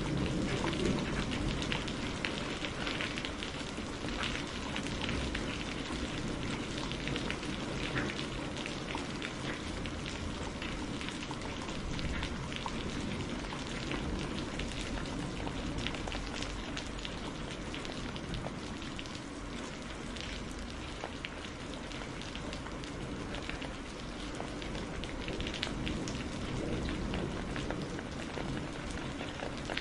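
Steady rain pattering, with many fine crackles and a low rumble underneath, as from a fireplace fire mixed with a rainstorm.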